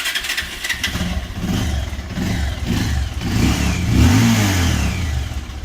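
Bajaj Pulsar 200's single-cylinder engine firing up again on the electric starter after stalling, then running and being revved, rising to a peak about four seconds in and dropping back.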